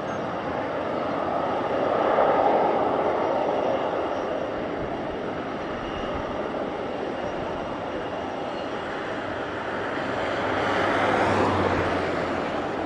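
Jet engines of a Bombardier CRJ-1000 regional jet running as it comes in to land, a steady rush that swells about two seconds in and again near the end.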